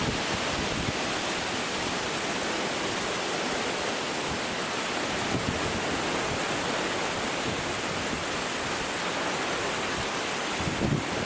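Typhoon wind rushing steadily through bamboo. Gusts start buffeting the microphone near the end.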